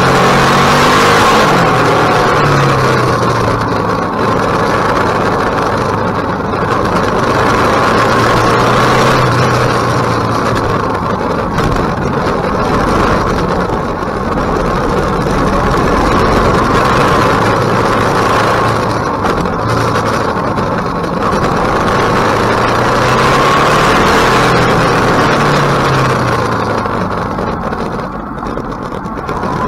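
KTM 1050 Adventure's V-twin engine pulling through the gears, its pitch rising and falling again and again, over a steady rushing noise.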